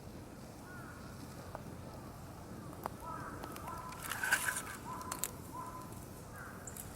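Campfire crackling, with scattered sharp pops over a low steady burn. In the middle a bird calls several times, a run of short, even-pitched calls.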